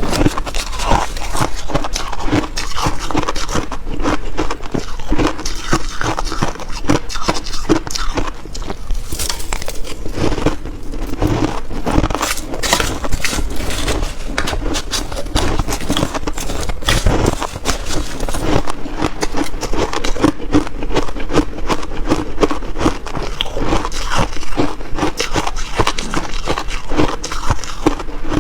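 Close-miked crunching and chewing of shaved ice in big mouthfuls, a loud dense crackle that goes on without a break.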